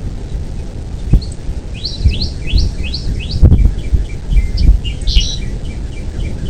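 Bald eagle calling: a run of about five quick, high, rising piping notes, then a string of shorter chirps. Under them is a loud low rumble with several dull thumps.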